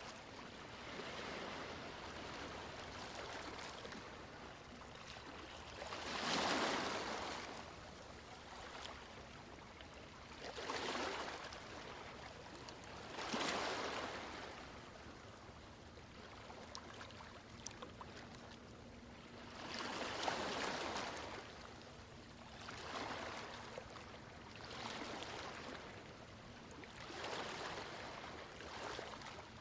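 Ocean surf washing in, a steady hiss that swells into a louder wave break about every two to seven seconds.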